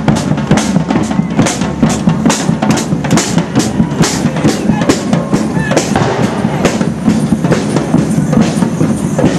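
Drums beating a steady march rhythm, about two strong beats a second, over a dense background din.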